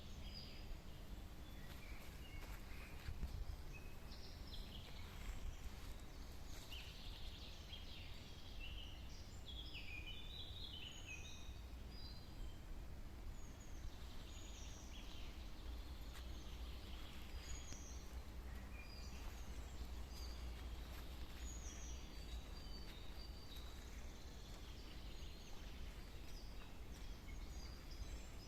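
Faint songbird chorus: several small birds giving short chirps and quick twittering phrases throughout, over a steady low rumble.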